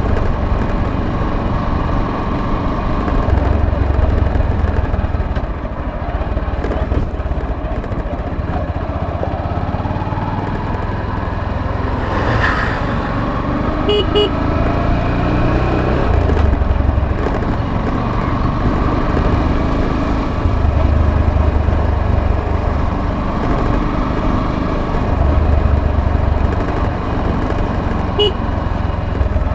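Motorcycle engine running under way, its pitch rising and falling with the throttle, with short horn toots about halfway through and again near the end.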